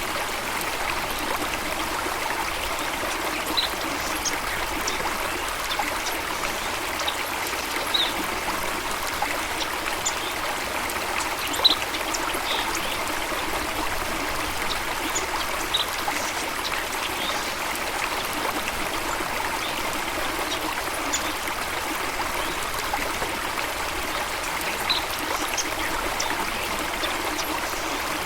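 Steady rush and trickle of flowing water from a stream or small waterfall, with short, high bird chirps scattered through it.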